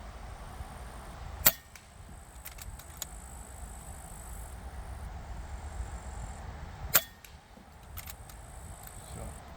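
Two shots from a 5.5 mm air rifle about five and a half seconds apart, each followed by a few lighter clicks of the cocking action. Wind rumbles on the microphone throughout.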